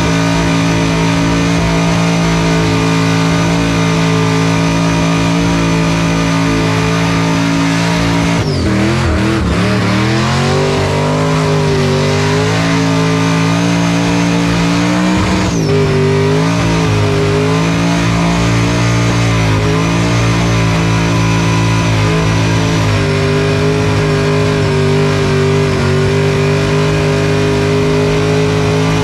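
A car engine held at high revs during a burnout. The revs drop sharply and climb back twice, once about a third of the way through and once about halfway, then hold steady again.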